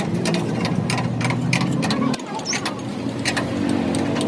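An engine running steadily, with irregular sharp metallic clicks and knocks over it.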